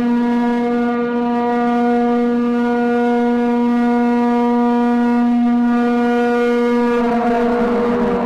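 Long, steady horn-like tone held at one pitch, fading near the end as road noise rises.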